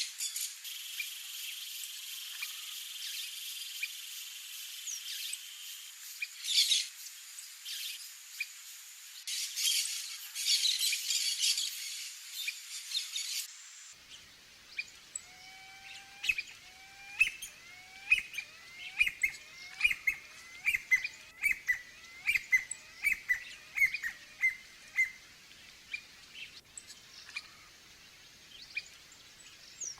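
High, steady insect buzzing with loud swells for the first half; after a cut about halfway, a songbird gives a run of about fifteen short, repeated call notes that come faster as the series goes on, then a few scattered calls.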